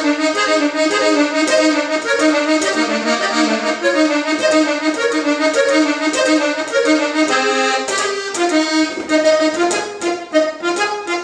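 Accordion playing a quick norteño melody, with notes changing several times a second.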